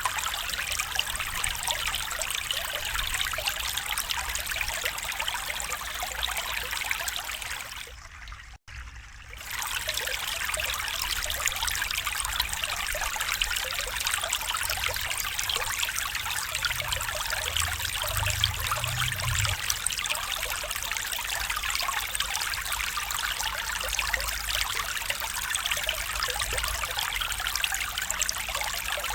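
Small stream flowing and trickling steadily. About eight seconds in, the sound briefly dips and cuts out for a moment.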